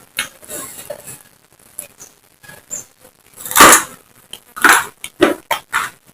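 A person chewing crunchy raw food (lalapan vegetables and jengkol) close to the microphone: a series of crisp, irregular crunches and mouth clicks, the loudest bite about three and a half seconds in, followed by a quick run of sharper crunches.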